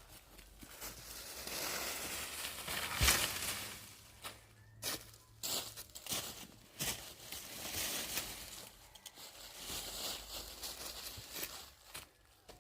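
Rustling and scraping of materials being handled, with scattered sharp knocks and clicks; the loudest knock comes about three seconds in.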